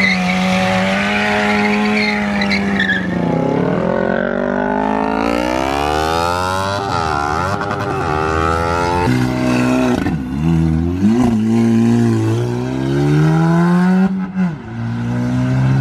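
A car engine held at high revs, its pitch rising and falling several times as the throttle is worked, with tyre noise in the first few seconds.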